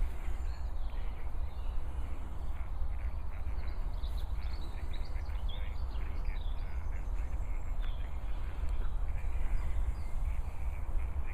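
Birds chirping and calling in short notes over a steady low rumble on the microphone.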